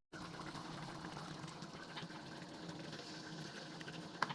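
Chicken simmering in coconut milk in a covered pan, a faint steady bubbling hiss, with a small click about two seconds in and a sharper one near the end.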